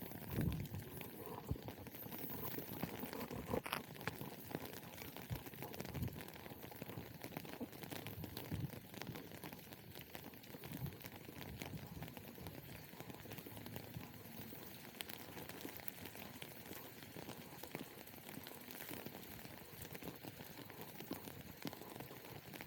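Rain pattering, with the steady hiss of wet surroundings, and footsteps on wet pavement; a few heavier low thumps come in the first few seconds.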